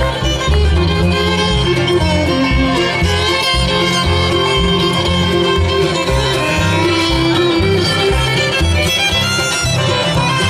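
Bluegrass band playing live, with fiddle to the fore over guitar and a steady low rhythm.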